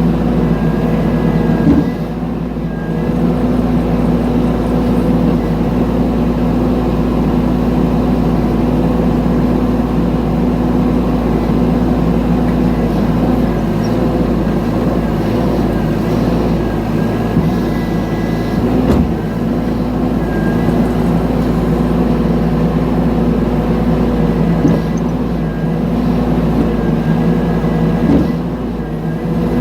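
Mini excavator's engine running steadily under work, with a brief dip in level about two seconds in and again near the end, and a single sharp click partway through.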